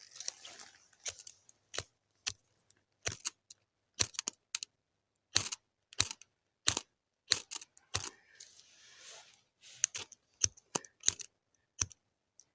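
Repeated sharp scrapes of a striker down a fire steel (ferrocerium rod), coming at uneven intervals of about one or two a second, as sparks are struck onto dry-grass tinder that will not catch.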